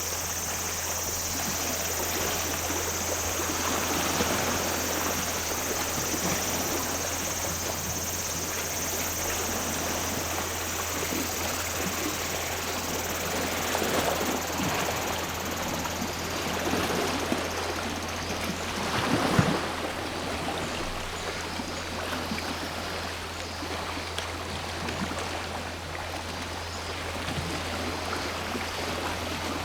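Small waves washing onto a shore, coming in slow swells, with one larger surge about two-thirds of the way through. Over the waves a steady, high chorus of cicadas drones and then falls away a little past halfway.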